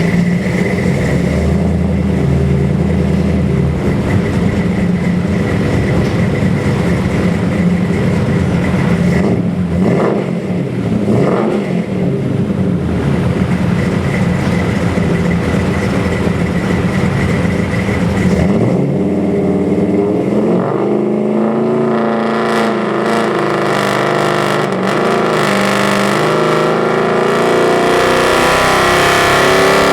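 Ford 347 stroker small-block V8 running on an engine dyno. It idles steadily, is revved up and back twice about ten seconds in, then climbs slowly in revs through the last ten seconds.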